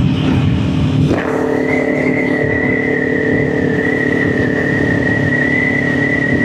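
Kawasaki Ninja 400's parallel-twin engine running steadily while riding, with road and wind noise. About a second in, the engine note shifts and a steady high whine sets in and holds.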